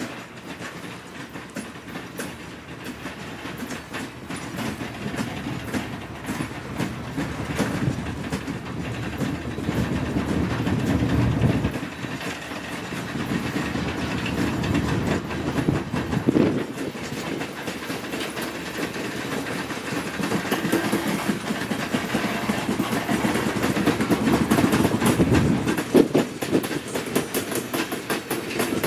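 A train rolling past, its wheels clacking over the rail joints in a steady run of clicks over a rumble that swells and eases.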